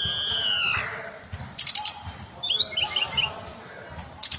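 A tledekan gunung (Sunda robin) singing. It opens with a drawn-out whistle falling in pitch, then gives a quick run of sharp clicking notes, a short twittering phrase, and another burst of clicks near the end.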